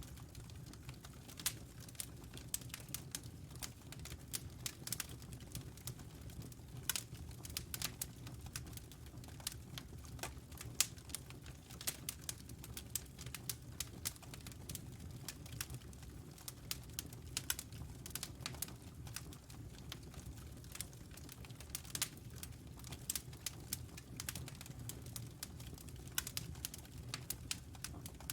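Wood fire crackling in a fireplace: irregular sharp pops and snaps, a few a second, over a steady low rumble of the flames.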